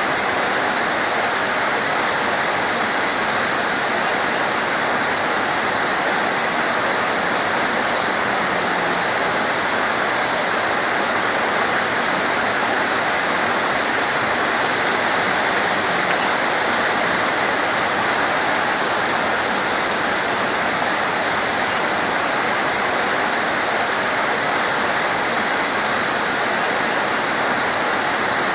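Torrential rain pouring steadily, one even, dense hiss, with two faint ticks, one early and one near the end.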